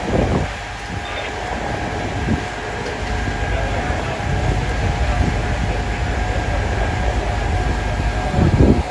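Steady low rumble of a heavy diesel engine running, with a faint steady whine above it, and wind buffeting the microphone.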